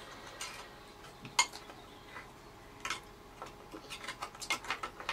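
Small plastic and metal parts of a vintage Electrolux Z345 vacuum cleaner's release mechanism clicking and clattering as they are handled and fitted back together by hand. Scattered sharp clicks, one louder click about a second and a half in, coming faster near the end.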